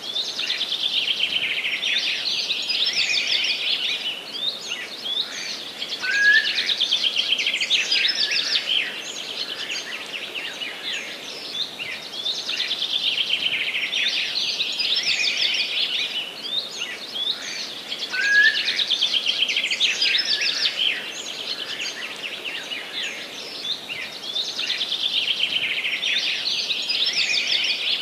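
Songbirds singing in a dense, continuous chorus of chirps and trills, with the same passage of song recurring about every 12 seconds.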